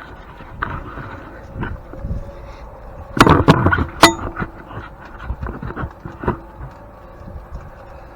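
Metal knocks and clanks from tools and parts as an old grain mill is taken apart: a few light taps, a loud cluster of knocks about three seconds in, then a sharp metallic strike that rings briefly.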